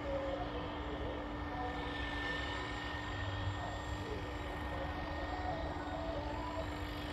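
700-size radio-controlled scale UH-1 model helicopter running steadily, a constant tone over an even rushing noise.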